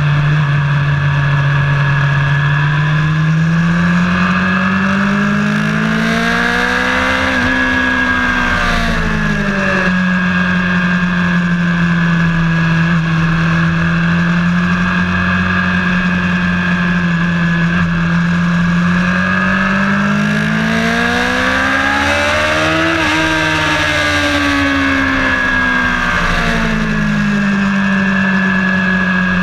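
Engine of a vehicle lapping a race track, heard onboard: it holds a steady drone, and its pitch climbs smoothly twice, peaking about a quarter and three quarters of the way through, before falling back.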